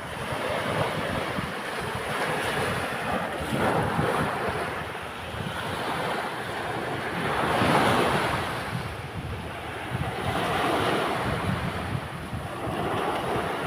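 Sea waves breaking and washing up on a beach, swelling and easing several times, with the loudest break about eight seconds in. Wind rumbles on the microphone underneath.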